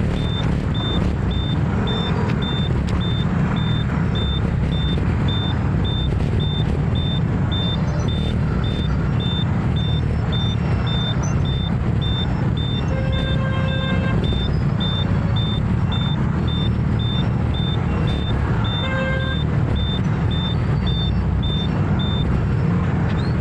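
Motor scooter riding through city traffic: steady engine and road noise. A high electronic beep repeats about twice a second until near the end, and a horn honks briefly twice, once about halfway and again a few seconds later.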